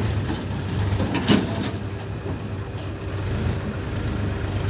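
Diesel engine of heavy machinery running steadily at low revs, with one sharp knock about a second in.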